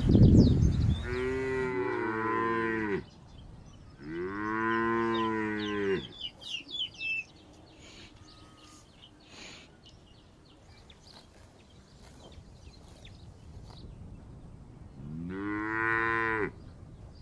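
Cow mooing: three long moos, the first about a second in, the second about four seconds in and the last near the end, with quieter pauses between them.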